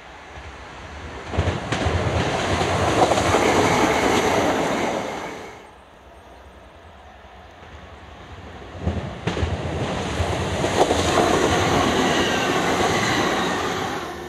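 Two passenger trains pass close by over a level crossing, one after the other. Each begins with sharp wheel clacks over the crossing, then holds a loud rushing rumble for about four to five seconds before dying away.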